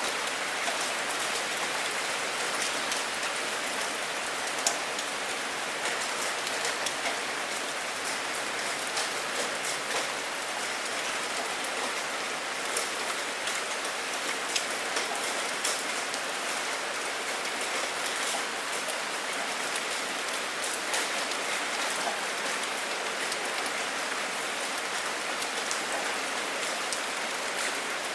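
Steady rain falling on a surface, with many individual drops ticking sharply over an even hiss.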